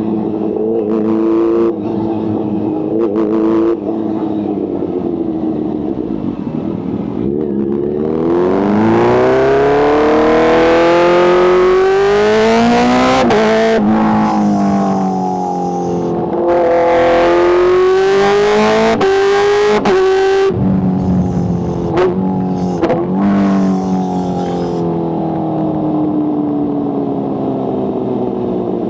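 Kawasaki H2's supercharged inline-four engine running steadily, then revved up and down twice in long climbs and falls, followed by two quick blips. A few sharp cracks come between the revs, and the engine then settles back down.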